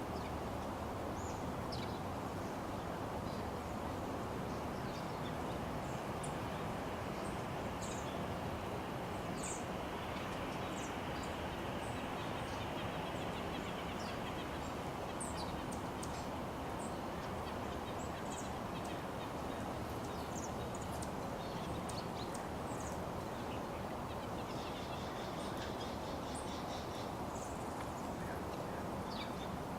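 Small birds giving short, high chirps scattered throughout, over a steady background noise.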